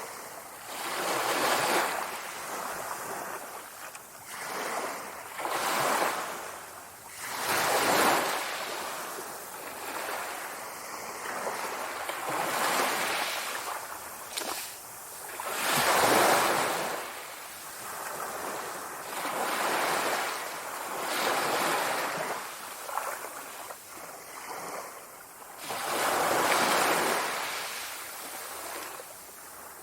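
Sea waves washing ashore, a rushing surf that swells and falls back every few seconds. The biggest breakers come about a quarter, half and nine-tenths of the way through.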